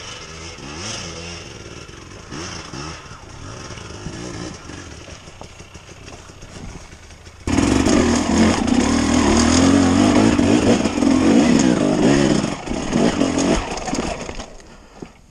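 Enduro dirt bike engines on a rocky trail. For the first half, a two-stroke engine revs up and down at a moderate level. About halfway through, the sound cuts suddenly to a much louder, close-up Husqvarna TE 300 two-stroke engine, revving up and down as it is ridden over loose rocks.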